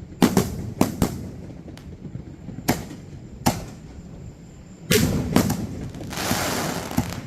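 Fireworks shells bursting one after another as sharp, spaced bangs. A quick cluster of several reports comes about five seconds in, followed by about a second of hiss.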